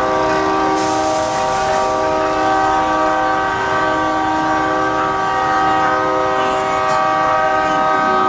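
Truck air horns blasting together in one long, loud, held chord of several tones, the mix of pitches shifting slightly a couple of times.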